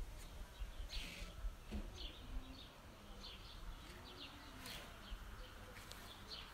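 Birds chirping faintly: short, scattered high chirps, about a dozen, over a quiet outdoor background.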